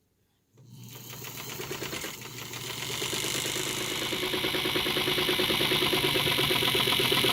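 Sewing machine motor running to wind a bobbin, starting about half a second in with a fast, even rhythm and growing steadily louder.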